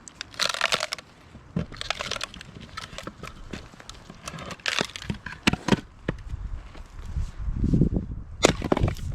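Fiskars X27 splitting axe striking firewood: a series of sharp strikes with the wood cracking and splintering apart, spread irregularly across several seconds.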